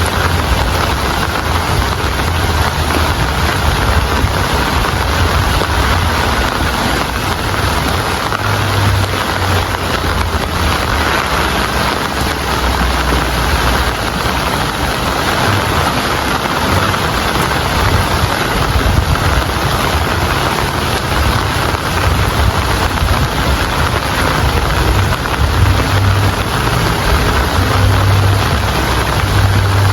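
Steady heavy rain falling, an even hiss with a low, uneven rumble underneath.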